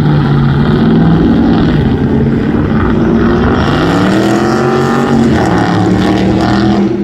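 Car engine running loudly, revved once about three and a half seconds in, its pitch rising and then easing back.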